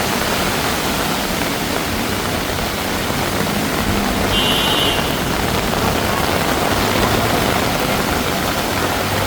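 Heavy tropical rain pouring down steadily, a dense hiss of downpour and running water. A vehicle engine's low hum builds in the second half, and a short high beep sounds about halfway.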